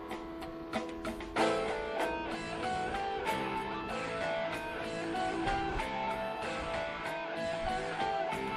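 Instrumental break of a song: guitar playing changing notes over chords, growing fuller and louder a little over a second in.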